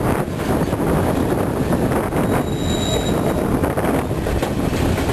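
Narrow-gauge White Pass & Yukon Route passenger train running along the track, heard from an open car platform: a steady rumble of the cars on the rails mixed with wind buffeting the microphone. A brief high-pitched squeal comes about two and a half seconds in.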